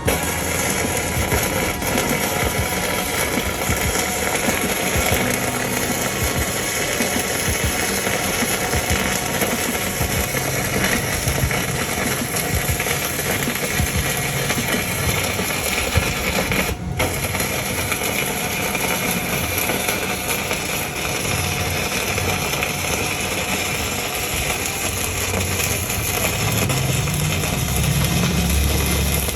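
Electric welding arc crackling and sputtering steadily as a bead is run, with a brief break about two-thirds of the way through.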